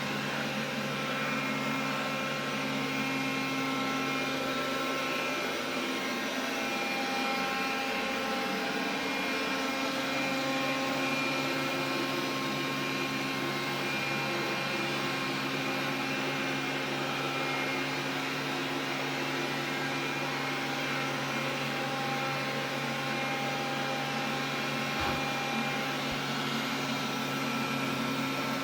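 Xiaomi vacuum cleaner running steadily, a motor hum with several whining tones over a rush of air, including the extraneous noise it has developed.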